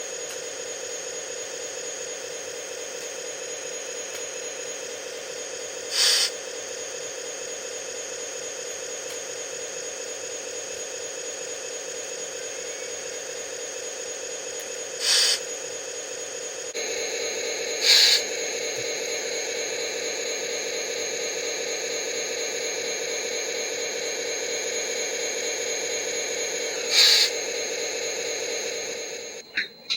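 R/C truck sound unit playing a simulated diesel engine idle through a small speaker: a steady hum that steps up a little about halfway through. Four short air-brake hisses come at roughly 6, 15, 18 and 27 seconds, and the engine sound cuts off just before the end.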